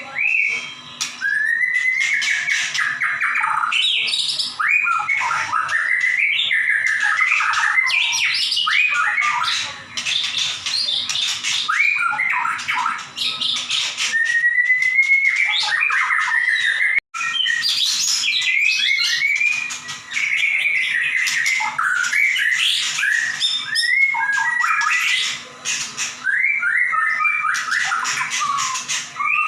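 White-rumped shama (murai batu) in full song: a loud, unbroken stream of whistled phrases that slide up and down, mixed with rapid sharp notes and harsh squawk-like calls. It cuts out for an instant about halfway through.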